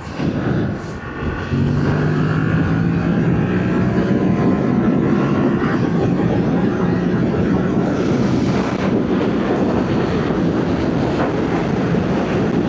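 Yamaha MT-07's parallel-twin engine through its stock exhaust, under wind noise. About a second and a half in, the engine note gets louder as the throttle opens, then holds a steady drone at speed.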